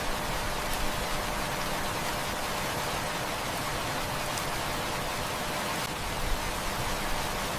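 Heavy rain falling steadily, an even hiss with a few faint ticks scattered through it.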